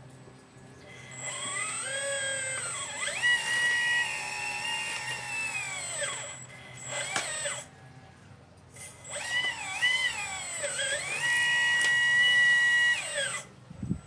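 Motors of a 1/12-scale model Liebherr 954 excavator whining as it is driven. There are two long stretches, with the pitch sliding up and down and then holding steady, and a brief burst between them.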